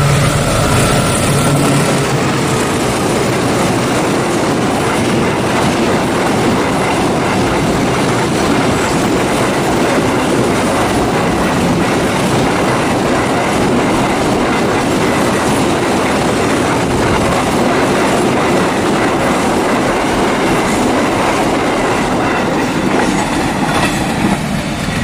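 A diesel locomotive hauling a container freight train passes close by, followed by a long run of loaded container wagons rolling steadily over the rails with a rhythmic clickety-clack of wheels on rail joints.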